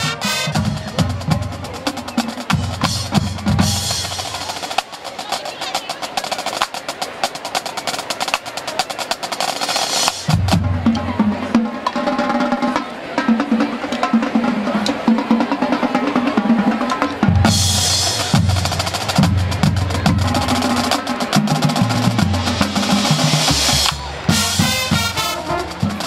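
Percussion-heavy band music: snare drum rolls over bass drum beats, playing steadily throughout.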